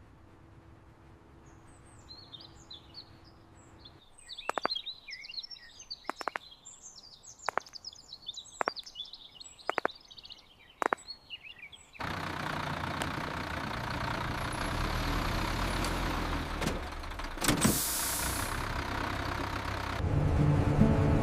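Birds chirping over a series of sharp ticks about a second apart, then a sudden switch to a loud, steady rush of traffic or vehicle noise with a brief whoosh near the end.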